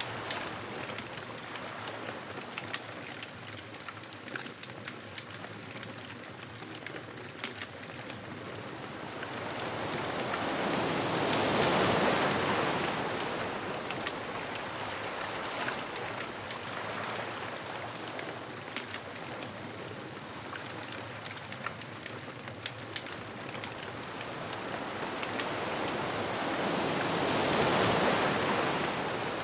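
Ocean waves washing onto a beach: a steady hiss of surf that swells twice into a louder break, about sixteen seconds apart, with small crackles from a bonfire throughout.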